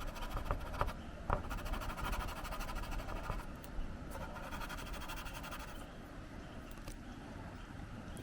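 Watercolor pencil scratching across synthetic Yupo paper in a run of short strokes, with a few sharper taps among them.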